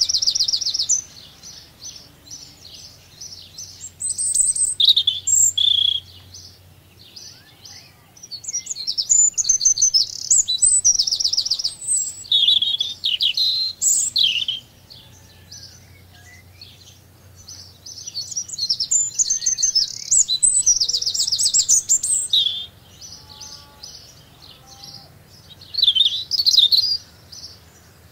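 Small birds singing: high, rapid trilled phrases in bursts of a few seconds each, with short quieter gaps between them.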